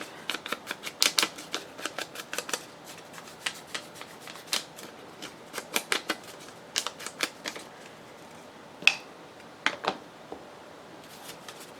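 A run of light, sharp clicks and taps, quick and close together at first, then scattered, with one sharper click about nine seconds in.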